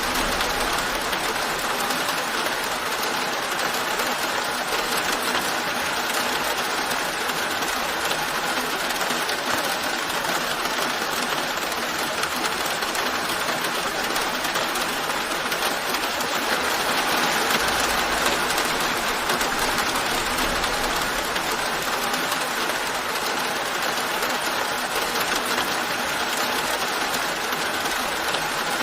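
Steady rain falling, a continuous even hiss that swells slightly a little past the middle.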